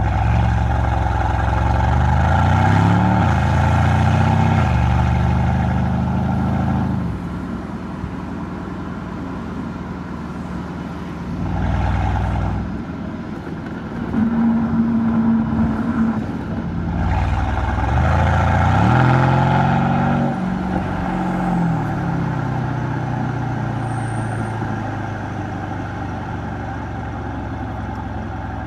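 Mercedes-AMG C63's M177 twin-turbo V8 exhaust while driving: it accelerates with the pitch climbing in steps through the gears near the start and again about two-thirds in, settling to a steady cruise in between.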